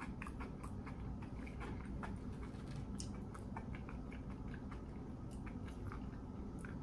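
Close-miked chewing of fried food, mouth closed, with many small scattered clicks over a low steady hum.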